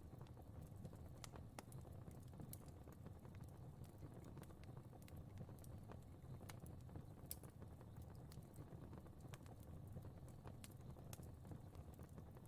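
Faint fire crackling: irregular sharp pops and clicks over a low, steady rumble of the flames.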